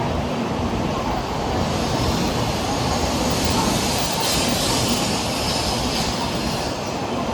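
Shinkansen bullet train moving along a station platform: a steady rumble with a rushing high hiss that builds from about two seconds in, is strongest around the middle, and eases off near the end.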